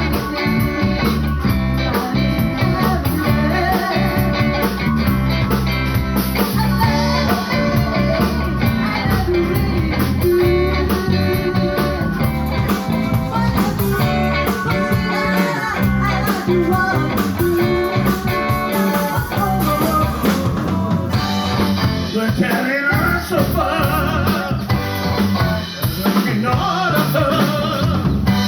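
A live band playing a blues number: guitar, bass and drum kit, with singing.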